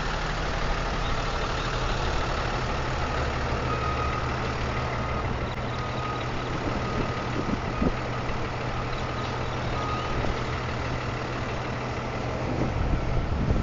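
A 26-foot rental box truck's engine running with a steady, unchanging hum.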